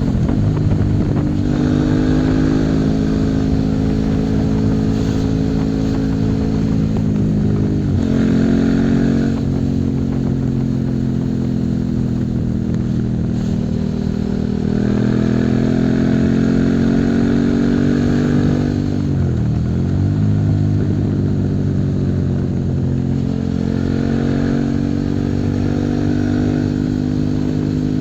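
Suzuki SV650's 90-degree V-twin engine running under way, held at fairly steady revs that slowly climb. Its revs briefly drop and recover about a third of the way in and again about two-thirds through.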